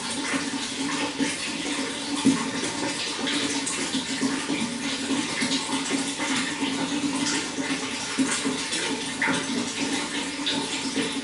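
Running water flowing steadily, with many small splashes and gurgles through it.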